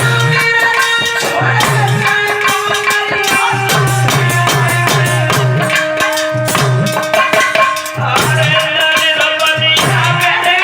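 Instrumental interlude of Indian folk-devotional music. Long held melody notes sound over a steady repeating drum beat and shaking, rattling percussion.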